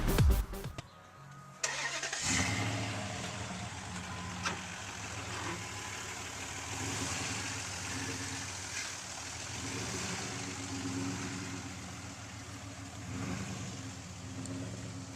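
Backing music cuts off in the first second. Then, after a short gap, a vehicle engine idles steadily, with a few scattered knocks.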